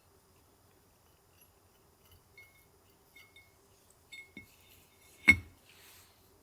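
A few light clinks, each with a short ringing tone, followed about five seconds in by one much louder knock and a brief soft rustle.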